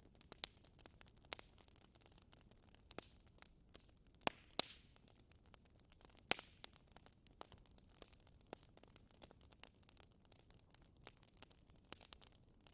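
Wood fire crackling: irregular sharp pops and snaps over a faint hiss, with a few louder pops near the middle.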